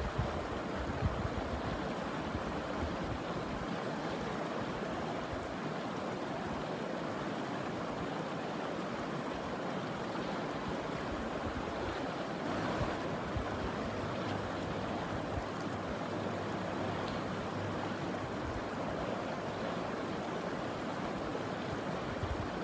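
River water running steadily past, a continuous even rushing.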